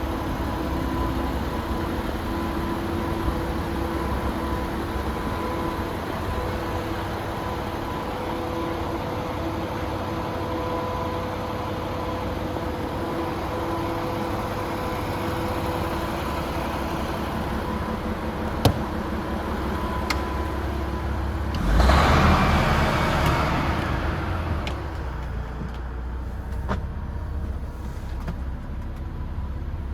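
DAF XF106 tractor unit's Paccar diesel engine idling steadily. A sharp click comes about two-thirds of the way in, followed by a louder rush of sound that fades away over a few seconds.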